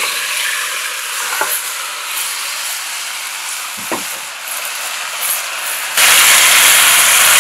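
Seasoned raw chicken legs sizzling as they land in hot curry paste that has been fried down until brown and grainy in a stainless-steel pot, with a few light knocks. The sizzle suddenly grows louder about six seconds in.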